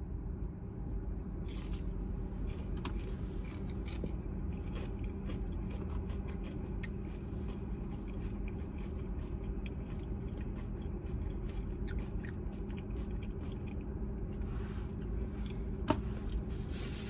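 Close-up chewing of crispy breaded fried shrimp: a long run of small crisp crunches and crackles in the mouth, over a steady low hum.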